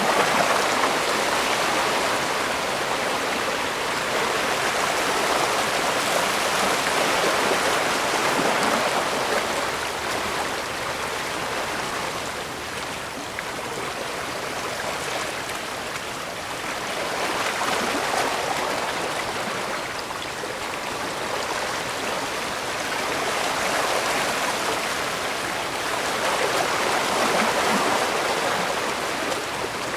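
Water rushing and washing without a break, swelling and easing every several seconds like waves coming in.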